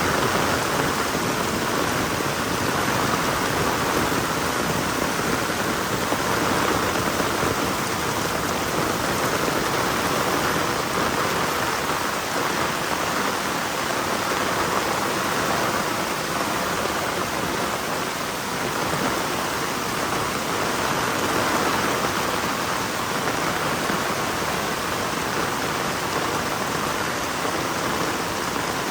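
Heavy rain falling steadily, a dense even hiss of drops on the ground and surfaces.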